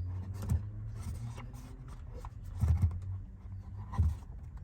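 Car seatbelt parts being handled and set down: light scraping with three dull knocks, about half a second in, near three seconds and about four seconds in, over a low rumble.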